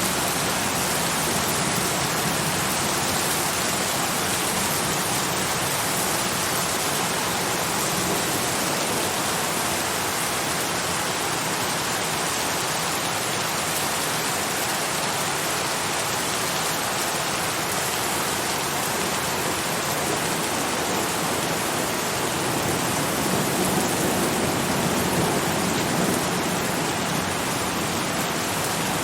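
Steady heavy rain falling, a dense, even hiss of drops with no breaks.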